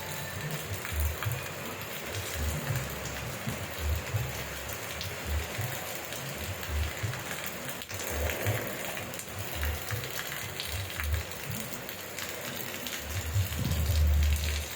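Steady rain falling, an even hiss of drops on surfaces, with irregular low thuds underneath and a louder low rumble near the end.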